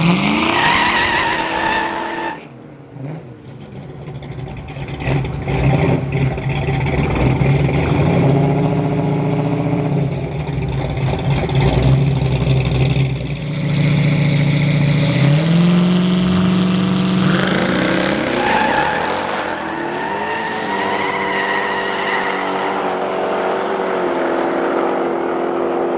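Street-race car engines under hard acceleration, the pitch climbing and then dropping through several gear changes, with a brief dip in loudness about two seconds in.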